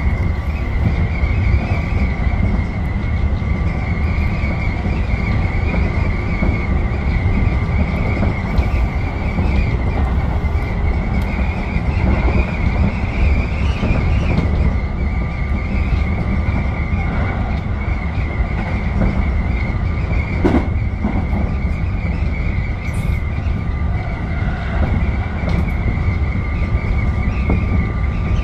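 Tobu 10030-series electric train running at speed, heard from the cab: a steady rumble of wheels on rail with a high, steady squeal over it, and a single knock about twenty seconds in.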